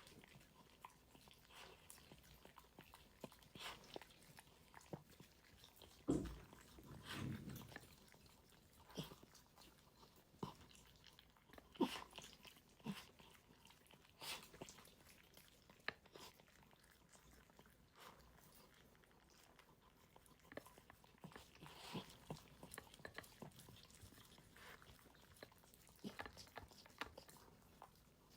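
A dog eating its food, with irregular crunching bites and small clicks. There is a louder knock about six seconds in and another sharp click about twelve seconds in.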